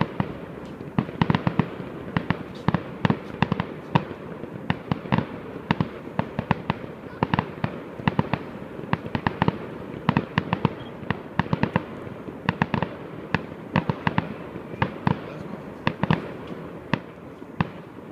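Fireworks going off: a rapid, irregular run of sharp cracks and bangs, several a second, over a steady low rumble.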